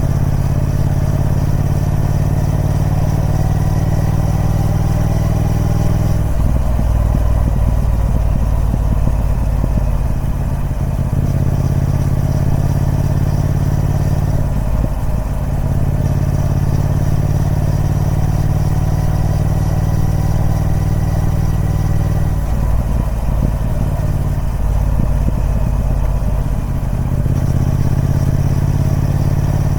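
Triumph Speed Twin 1200's parallel-twin engine running through its stock exhaust, its note shifting several times: about six seconds in, around fifteen seconds, and again a few times between twenty-two and twenty-seven seconds.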